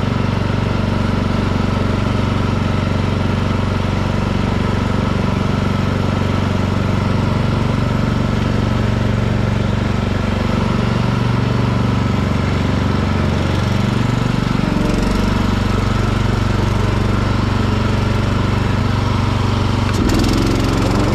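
Hecht garden tractor's engine running steadily while mowing, with a brief click near the end.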